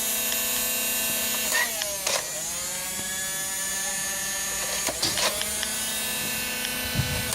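The battery-powered motor of an electric foam dart gun running with a steady whine. About two seconds in, its pitch sags and climbs back with a couple of clicks, the motor loading as a dart is fired. Two more clicks come about five seconds in.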